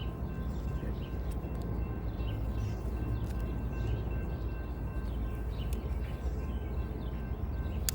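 Low steady rumble of a train rolling by, with a few faint bird chirps above it.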